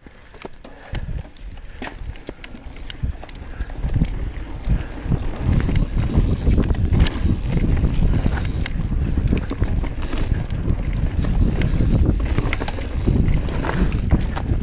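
Mountain bike ridden along a trail: wind buffets the microphone in a loud rumble, with the bike's rattles and the clicks of its tyres over rough ground. The sound builds over the first few seconds as the bike gets up to speed.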